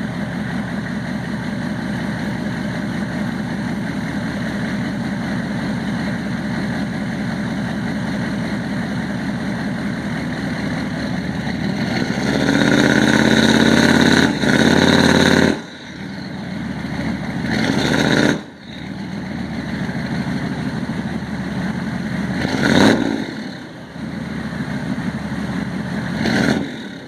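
6.5-litre turbo diesel V8 idling steadily, then revved: held high for about three seconds before dropping back abruptly, revved again, then blipped twice more near the end.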